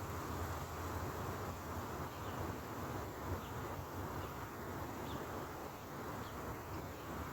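Outdoor nature ambience: a steady hiss and low rumble, with faint short chirps scattered through it.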